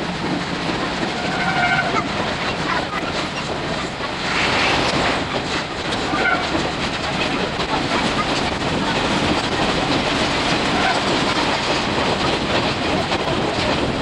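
Running noise of a steam-hauled 50-series passenger coach on jointed track: a steady, dense rush with rapid wheel clatter. The recording is sped up six times.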